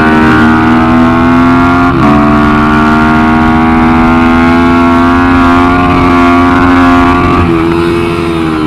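Minibike engine heard from on board under hard acceleration. About two seconds in it shifts gear, then the revs climb steadily until the throttle closes near the end, and after that the revs waver.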